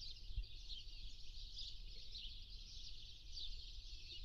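A steady chorus of many small birds chirping high and fairly faintly, over a low rumble.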